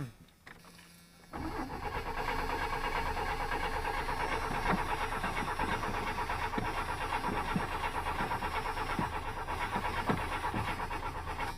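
Pickup truck engine being cranked by its starter for about ten seconds without firing, in an even, pulsing rhythm that stops near the end. The engine will not start after an ice storm; the owner suspects a frozen gas line or a dead fuel pump.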